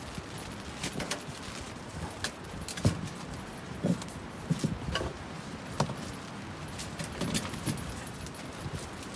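Steady strong wind noise, with irregular clinks and knocks scattered through it.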